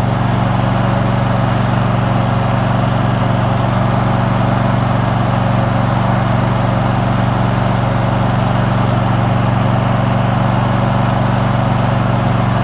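Riding lawn mower's engine running steadily under way, a constant drone with no change in pitch.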